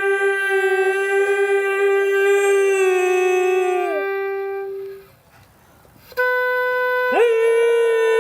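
Dog howling in long, steady held notes: one howl holds its pitch for about four seconds and then sags and fades. After a short pause a second howl starts, and about a second later another voice slides up to join it just below its pitch.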